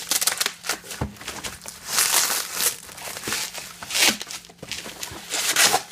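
Outer packaging being torn open and pulled off a boxed model by hand: a run of loud crinkling and ripping bursts, strongest about two, four and five and a half seconds in.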